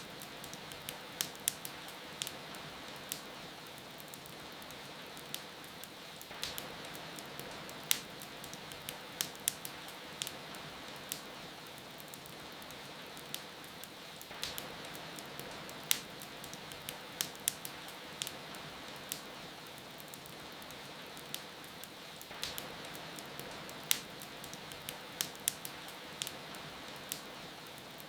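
Steady rain hiss with a wood fire crackling: irregular sharp pops and snaps, often in quick little clusters.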